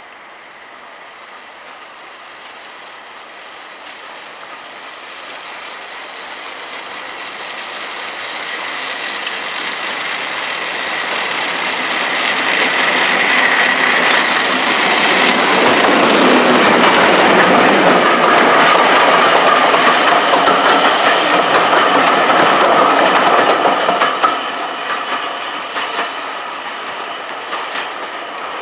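Class 37 diesel locomotive approaching and passing, its English Electric V12 engine growing steadily louder for about twenty seconds. The sound drops sharply as the locomotive goes by, and the train's wheels then carry on clicking over the rail joints.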